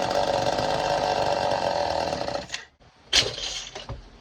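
Two-stroke engine of an old Craftsman (Poulan-built) chainsaw running briefly and then dying about two and a half seconds in, followed by a couple of short sputtering bursts as it is cranked again: the saw is firing but not yet staying running.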